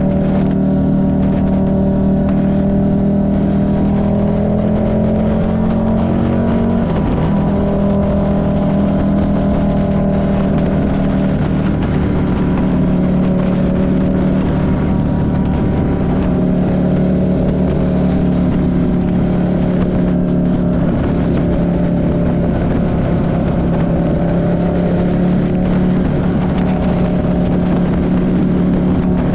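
Buell 1125CR's 72-degree V-twin running at steady riding revs, its pitch rising slightly and then dipping about seven seconds in.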